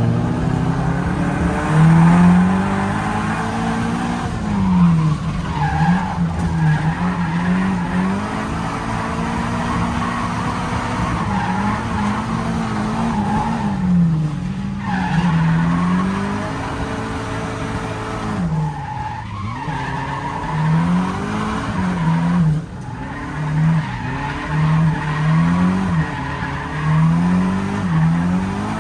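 Nissan 240SX's turbocharged CA18DET four-cylinder engine revving up and down again and again while drifting, with tyres squealing. The pitch climbs and drops every second or two through the stretch.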